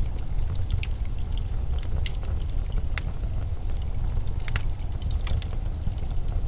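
Blizzard wind as a steady, deep rumble, with many small, scattered ticks and crackles over it.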